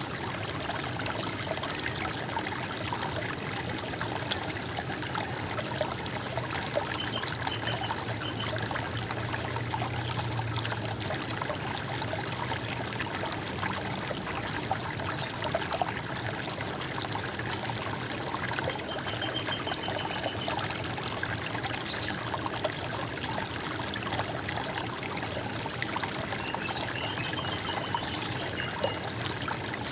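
Running water trickling and splashing steadily, with a few faint high bird calls now and then.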